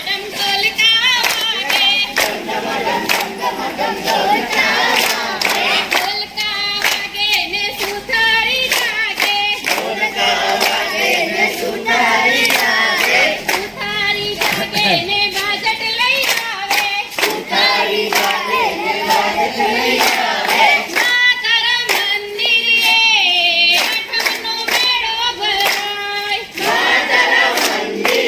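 A group singing a garba song together, with frequent hand claps keeping time.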